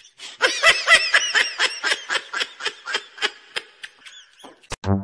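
Rapid high-pitched laughter, a run of short bursts that slow and fade toward the end, cut off by a sharp click.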